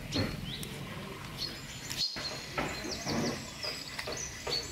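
Small birds chirping in short, repeated high calls with quick pitch slides. The sound drops out briefly about two seconds in.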